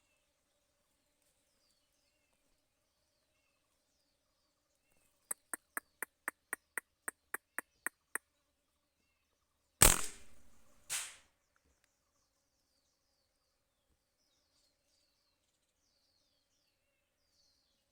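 Faint birds chirping, then a run of about a dozen sharp, even clicks, about four a second. About two seconds later comes one loud shot from a hunting weapon, and a second, shorter crack follows about a second after it.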